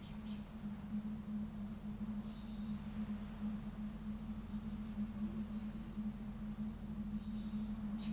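Outdoor coastal ambience: a steady low hum throughout, with a few faint, short high chirps, about twice.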